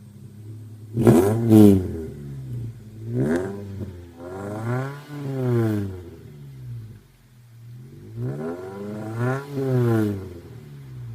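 Mitsubishi Lancer X with a straight-through exhaust, engine idling and revved in blips: two quick sharp blips about a second in, the loudest, then a shorter one, then slower rises and falls around the middle and near the end, dropping back to idle between.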